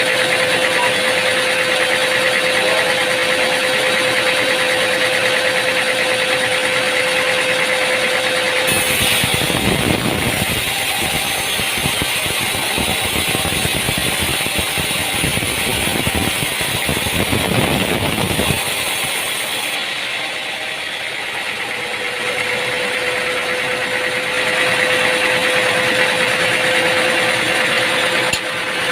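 Sawmill machinery running with a steady motor hum and a constant tone. The sound changes abruptly about nine seconds in to a rougher, denser noise. The steady hum and tone return about ten seconds later.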